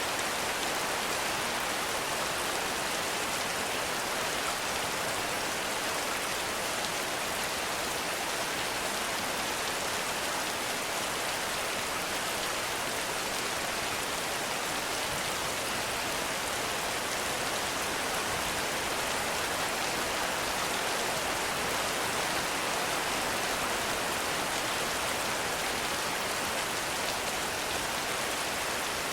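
Heavy rain falling steadily in a forest, an even hiss of many drops on leaves and ground.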